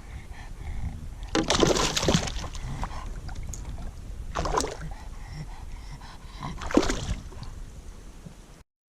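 Water splashing and sloshing at a kayak in three louder bursts over a steady low rumble, then the sound cuts off abruptly near the end.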